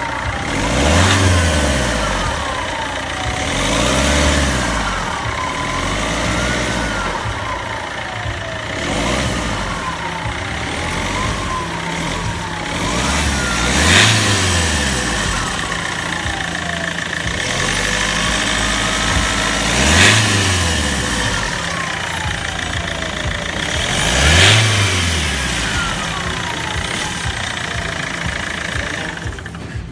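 Turbocharged car engine revved up and let fall again and again, about every two to three seconds, with a falling whistle as the turbo spools down after the revs. Three of the hardest revs, near the middle and later on, peak in a sharp burst.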